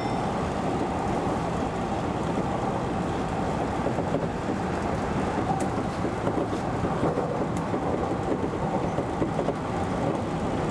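Keio Inokashira line electric commuter train running along the track, a steady rumble of wheels and running gear heard from the front of the train.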